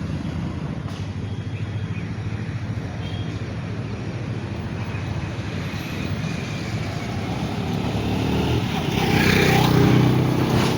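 Road traffic running steadily, with a vehicle passing close and loud about nine seconds in.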